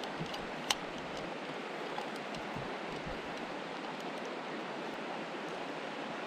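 Mountain stream rushing steadily, with a single sharp click about a second in.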